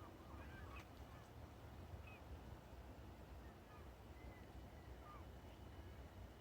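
Faint, scattered calls of distant geese, short and spaced out, over a low wind rumble.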